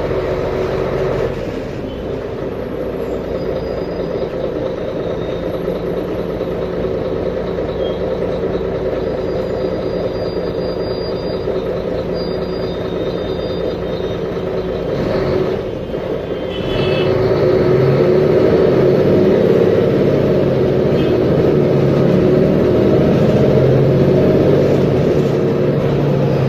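Mercedes-Benz Conecto G articulated bus's OM457LA inline-six diesel engine running. About two-thirds of the way in it dips briefly, then comes back louder, its pitch stepping up and down.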